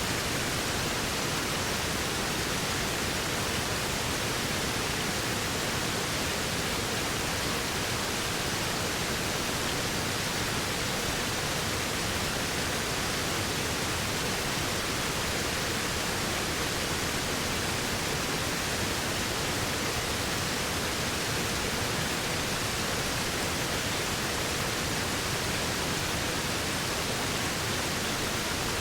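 Waterfall: a steady, unchanging rush of falling water, an even hiss with no separate splashes or other events.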